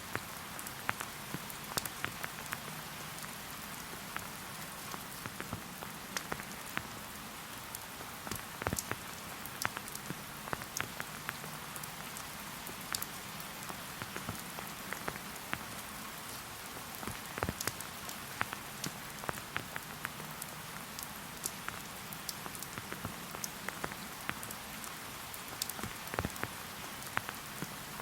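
Steady rainfall, an even hiss with many distinct individual drops ticking close by.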